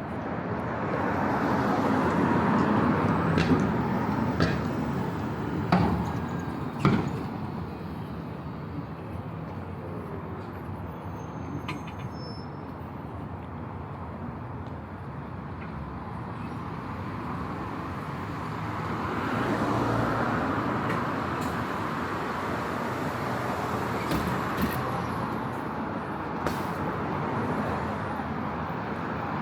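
City street traffic: road vehicles passing by in two swells, one in the first few seconds and one about two-thirds of the way in, over a steady traffic hum. There are a few sharp knocks in the first seven seconds and a couple more near the end.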